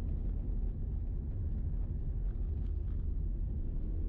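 Steady low rumble of a Toyota Prius driving on an unpaved logging road, heard from inside the car: tyre and road noise, with a few faint ticks of gravel.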